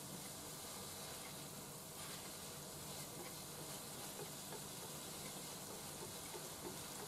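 Cabbage, shimeji mushrooms and tuna frying in a pan, with a faint steady sizzle and scattered light ticks of chopsticks stirring the food.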